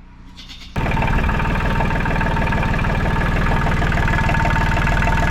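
Tractor engine coming in suddenly under a second in, then running steadily at idle with an even, rapid firing beat.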